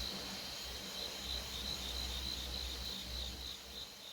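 Insects chirping in an even, pulsing rhythm of about four pulses a second, over a low rumble, fading near the end.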